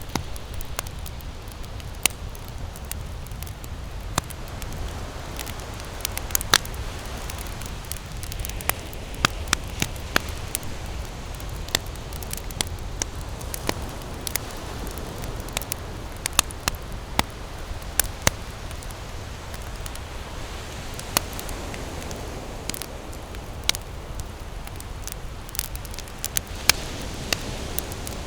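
Wood campfire burning, with frequent sharp, irregular crackles and pops over a steady low rumble.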